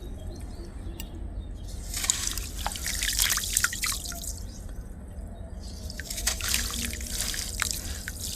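Clumps of dry, dusty black sand crumbling and dropping into water, crackling, dripping and splashing in two spells, about two seconds in and again about six seconds in. A steady low hum runs underneath.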